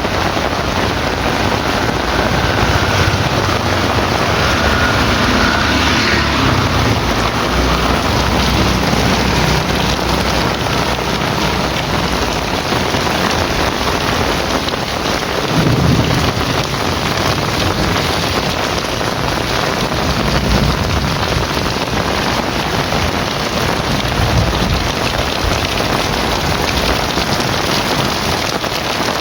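Heavy rain falling steadily, with low rumbles of thunder, the strongest about halfway through.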